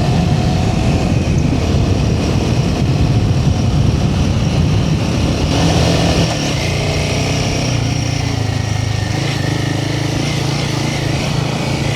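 Royal Enfield Himalayan 450's single-cylinder engine running while the bike rides along, with rough road and wind noise over it. About six seconds in it drops to a quieter, steadier note.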